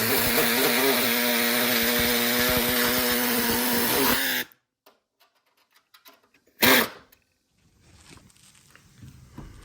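Angle grinder cutting through car body sheet metal, running at a steady pitch, then switched off about four and a half seconds in. A second short, loud burst follows about two seconds later, then only faint clicks and handling sounds.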